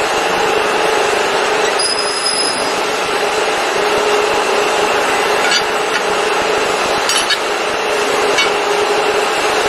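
Steady running noise of a servo electro-hydraulic CNC press brake, a constant hum with a few short clicks, and a brief high whistle about two seconds in.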